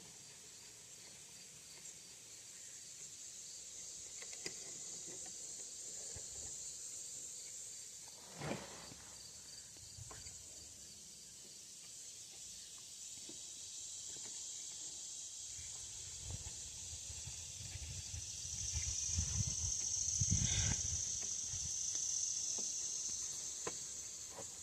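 A steady high hiss runs throughout. A single sharp knock comes about eight seconds in, and low rumbling handling noises follow in the last third, as of parts being moved and worked on a bench.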